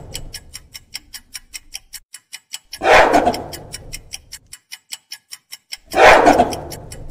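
Gorilla calling: loud, rough calls about a second long, each fading out, repeated roughly every three seconds. Under them a clock ticks fast and steadily.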